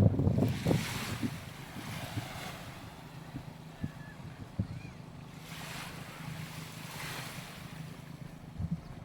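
Small waves washing onto a sandy beach: a surge of surf hiss just after the start and two more in the second half. Wind buffets the microphone in the first second.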